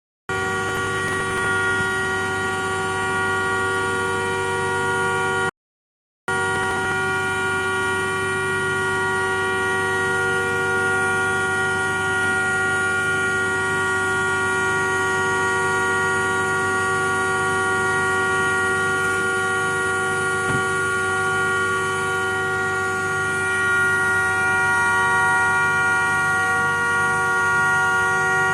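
A continuous, unwavering horn-like drone of several fixed tones, with a faint regular pulsing underneath. It cuts out for under a second about five and a half seconds in, then carries on unchanged.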